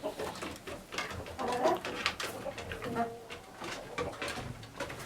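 Chickens clucking softly inside a coop, a few short low calls among scattered clicks and rustling.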